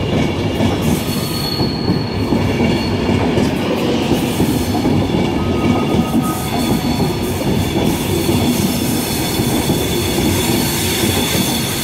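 Class 390 Pendolino electric train arriving at a platform, a steady rumble of wheels on rail as the coaches roll past close by, with brief high-pitched wheel squeals now and then.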